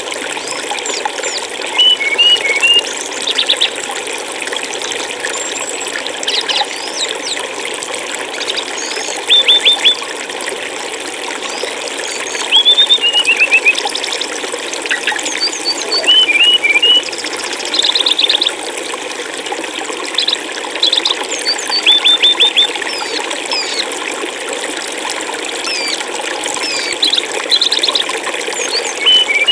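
Flowing stream water making a steady rush, with a small songbird chirping over it in short bursts of quick notes every couple of seconds.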